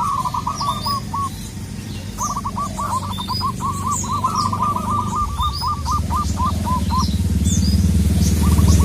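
Zebra dove (local perkutut) singing rapid runs of staccato cooing notes: a short run at the start and a long one from about two to seven seconds in. Small birds chirp high above it, and a low engine drone builds louder through the second half.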